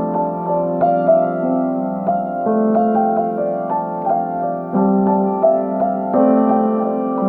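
Solo piano improvising slowly: held chords in the middle register change every couple of seconds while a gentle melody of single notes is struck over them.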